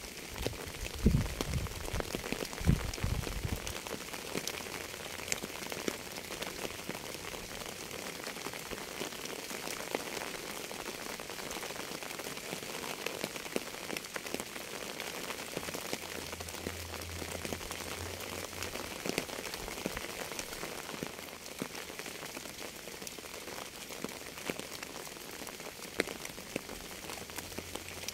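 Steady rain, with many separate drops striking close by, and two heavier low thumps about one and three seconds in.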